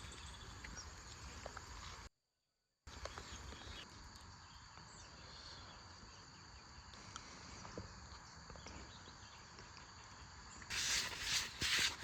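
Insects chirring in a steady outdoor background, broken by a moment of dead silence about two seconds in. Near the end, a run of loud rhythmic scraping or shuffling strokes, about three a second, comes in over it.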